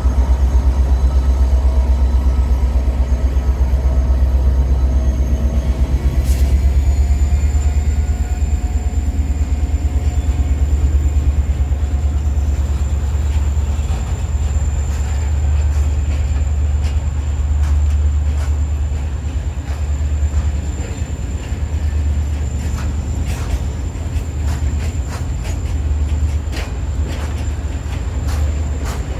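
M62M diesel freight locomotive running past, its engine giving a heavy low rumble, followed by a train of loaded open coal wagons rolling by. The rumble eases after about twelve seconds, and the wagons' wheels then click irregularly over the rail joints. A thin steady high squeal joins about six seconds in.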